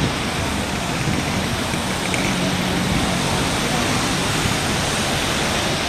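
Steady rushing noise of wind on a phone microphone, mixed with city street traffic.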